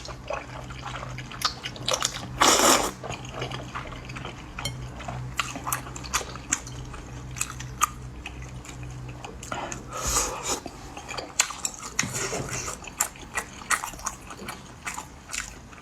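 Close-up eating of potato starch noodles: wet chewing and lip smacks throughout, with two longer, louder slurps about two and a half seconds in and about ten seconds in. A faint steady low hum runs underneath.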